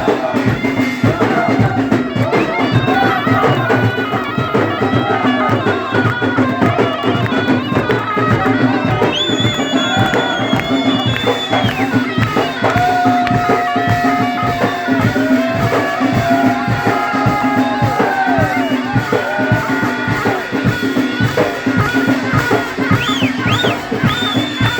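Traditional folk wedding music: a wind-instrument melody held on long notes over a dense, fast drum beat.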